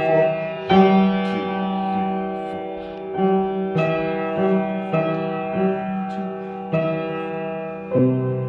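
Piano playing a simple melody with the sustain pedal down, so each struck note rings on under the next; a lower final chord is struck near the end and left to ring.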